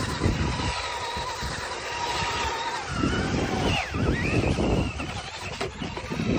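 Radio-controlled car's motor whining, its pitch dipping sharply and rising again about four seconds in, over a low rumbling noise.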